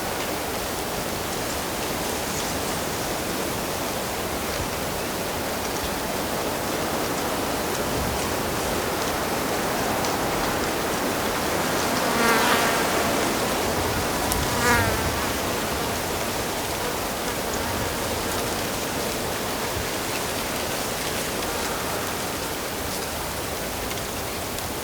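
Steady rush of flowing stream water, with an insect buzzing close past the microphone twice about halfway through.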